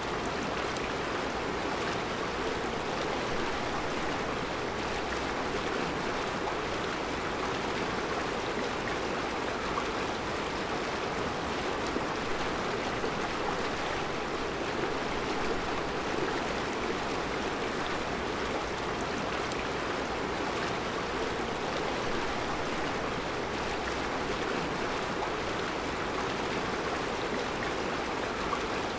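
Mountain river flowing over round rocks in a rocky riverbed: a steady, even rush of water.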